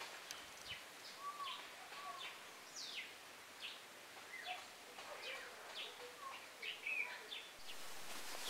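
Several birds chirping and calling, faint: many short sweeping chirps with a few whistled notes among them. Near the end a steady hiss rises beneath them.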